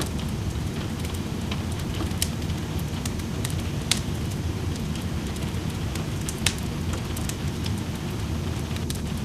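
Steady rain with a wood fire crackling in a fireplace; sharp pops stand out above the rain a few times, the loudest about four and six and a half seconds in.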